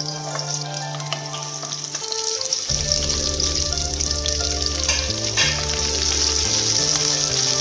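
Garlic frying in hot oil in a pan, a steady sizzle, with sliced onions tipped in from a plate partway through. Background music with held low notes plays underneath.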